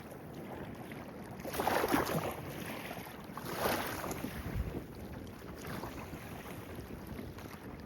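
Stream water babbling and splashing, with a few louder gushing surges in the first half.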